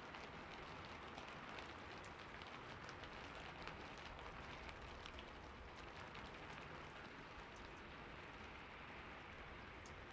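Rain falling steadily on a roof: a constant hiss dotted with many small drop ticks.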